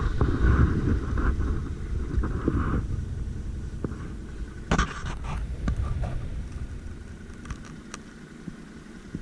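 ATV engine running with a low rumble that fades steadily over several seconds, with a few sharp knocks along the way, the loudest about halfway through.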